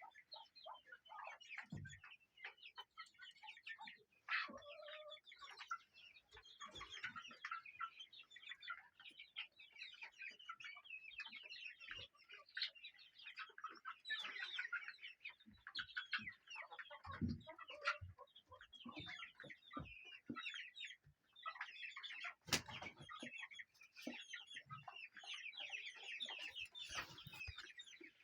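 A flock of chickens clucking continuously, many short overlapping calls, with a few dull thumps now and then.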